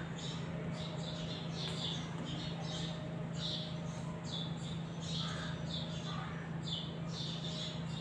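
Small birds chirping repeatedly in short high calls, two or three a second, over a steady low hum.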